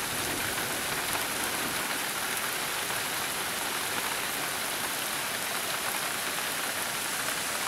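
Heavy rain falling steadily, with water from overflowing gutters splashing down.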